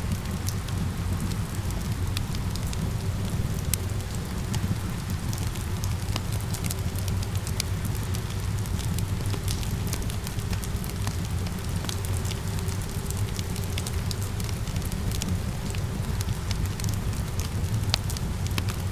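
Steady rain mixed with a crackling wood fire: a constant low rumble of rain with many scattered sharp crackles and pops.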